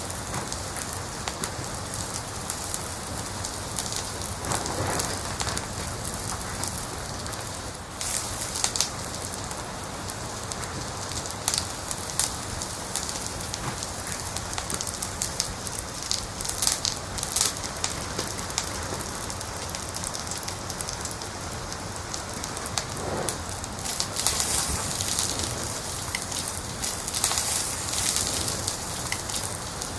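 Wood fire in a fireplace crackling: a steady hiss with frequent sharp snaps and pops, now and then coming in busier clusters.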